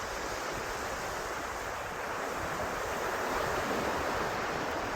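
Ocean surf washing steadily, swelling slightly in the second half.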